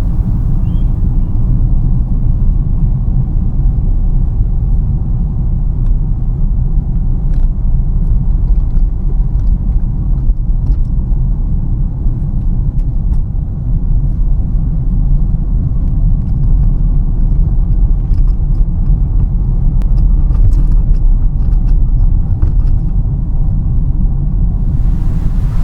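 Steady low road rumble inside a moving car's cabin: tyres and engine while driving, with a few faint ticks. Near the end a higher hiss joins in.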